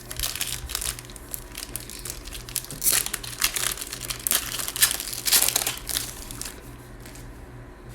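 Trading card pack wrapper crinkling as it is torn open and handled, a dense run of crackles that is loudest in the middle and stops about seven seconds in.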